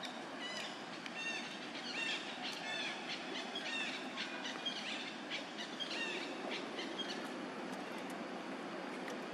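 Small birds chirping in quick short calls over a steady outdoor background hiss; the chirping stops about two-thirds of the way through.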